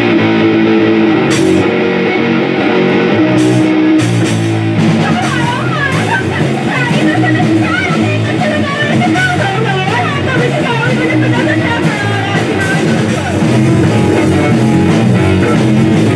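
Live rock band playing with electric guitar and drums; about four seconds in the full band comes in, with a wavering lead line above it.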